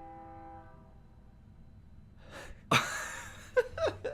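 A train horn sounding a steady multi-note chord, fading out within the first second. Later a loud sudden burst of noise and brief vocal sounds.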